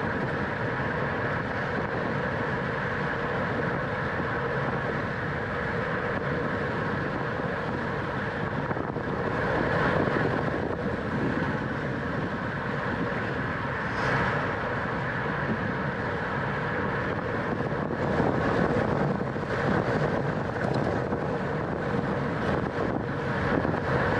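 Steady wind noise on the microphone of a road racing bicycle at speed, with a few short clicks in the second half.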